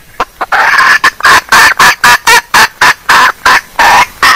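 Female junglefowl calling: a few short notes, one longer call about half a second in, then a fast run of clucks, about four a second.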